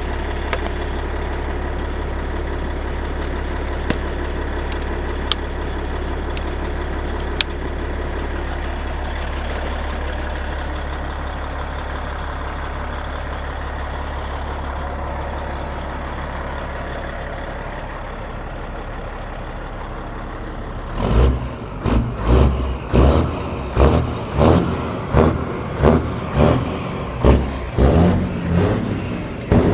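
Semi-truck diesel engine idling steadily, running on four freshly installed batteries. About twenty seconds in, a run of loud, evenly spaced pulses begins, roughly two a second.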